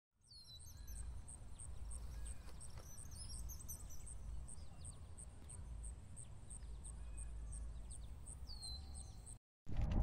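Birds chirping: a high chirp repeated evenly about three times a second, with several calls sliding down in pitch, over a steady low rumble. The sound cuts off abruptly near the end.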